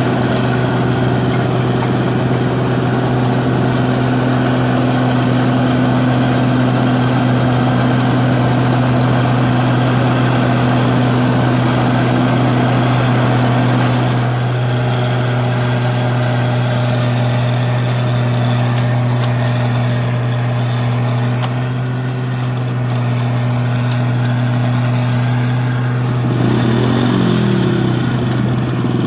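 New Holland 8060 combine harvester's diesel engine running steadily at working speed while harvesting rice paddy, with a strong low hum. The note dips slightly about halfway through, and a wavering tone comes in near the end.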